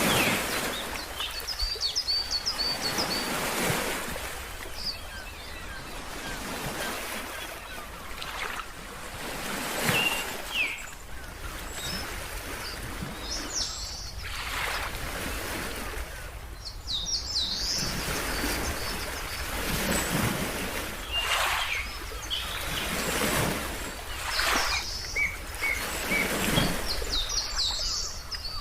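Ocean waves washing in, swelling every few seconds, with birds chirping in clusters of short high calls now and then.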